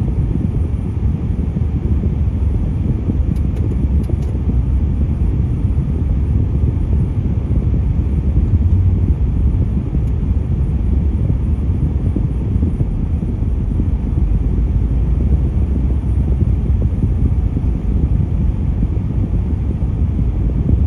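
Steady low rumble of road traffic and vehicle engines, with no distinct event standing out.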